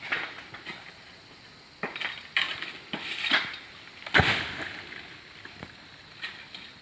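Oil palm harvesting sickle (egrek) on a long pole working at a tall palm's fronds: a run of sharp knocks and scraping clatters. The heaviest is a loud thud about four seconds in.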